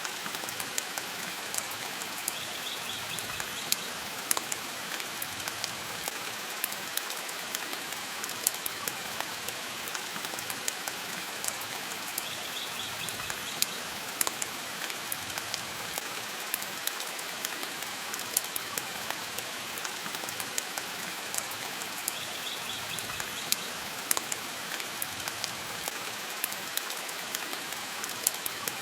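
Steady rain, with a wood fire crackling in a fireplace, giving frequent sharp, irregular pops.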